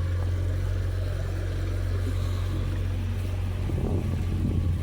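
Small boat's motor running steadily under way: an even low drone.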